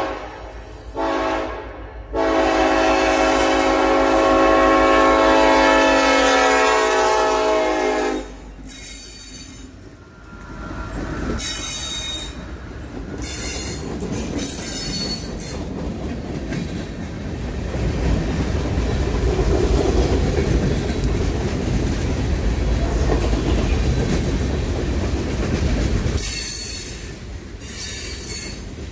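A diesel locomotive's air horn sounds in short blasts, then holds one long blast of about six seconds. The train then passes with a steady rumble of wheels and cars, and bouts of high-pitched wheel squeal.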